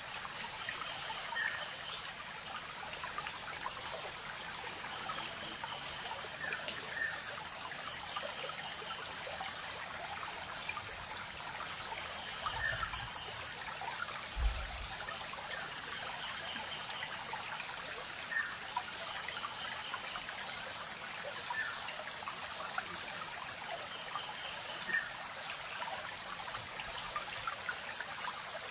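Small forest stream trickling and babbling steadily, with short high chirps repeating every second or two. A sharp click about two seconds in and two dull low bumps midway.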